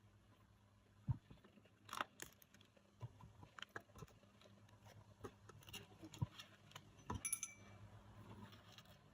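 Small objects being handled: a string of light clicks, taps and clinks at irregular intervals, with a brief ringing clink about seven seconds in, over a faint steady low hum.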